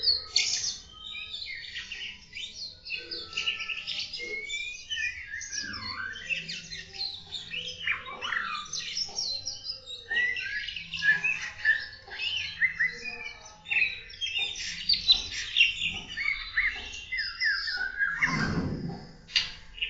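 Many captive birds in an aviary chirping and singing together, a dense, overlapping chorus of quick high chirps and sweeping calls. A brief, louder, deeper sound breaks in near the end.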